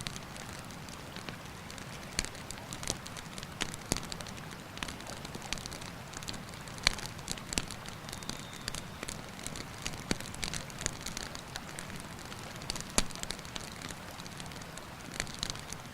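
Wood campfire crackling, with irregular sharp pops, the loudest about halfway through and again near the end, over the steady rush of a river.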